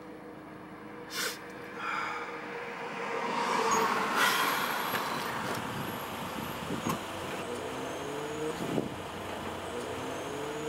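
Car engine running, heard from inside the cabin, with a few short louder rushes in the first half and the engine pitch rising a couple of times near the end.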